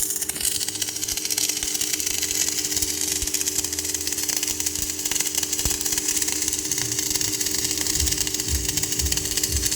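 Automatic welding machine running: a steady electrical hum under a continuous high hiss, with low thumping in the last couple of seconds.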